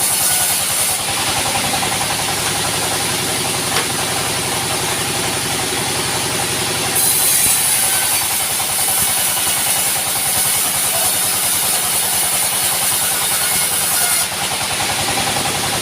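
Sawmill engine running steadily, with a high hiss over it that drops away about a second in, returns about seven seconds in, and fades again near the end.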